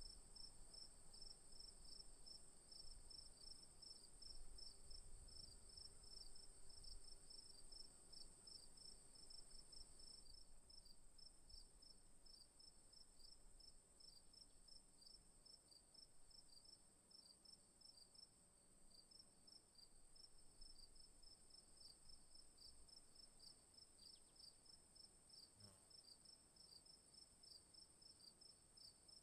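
Faint chorus of insects in the bush: one steady high trill and, below it, a fast run of pulsing chirps. A soft low rumble underneath dies away about ten seconds in.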